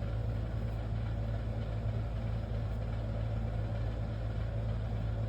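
Steady low hum, even in level.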